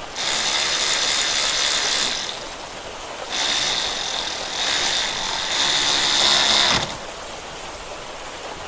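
A powered ratchet-type tool running in two long bursts, the first about two seconds, the second about three and a half seconds, with a steady high whine over a rattling hiss.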